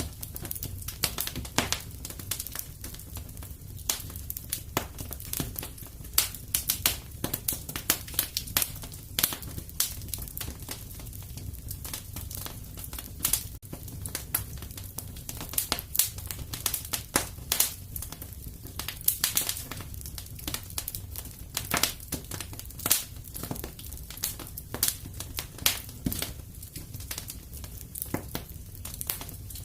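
Wood fire in a fireplace crackling, with frequent irregular sharp pops and snaps over a low steady rumble of the burning.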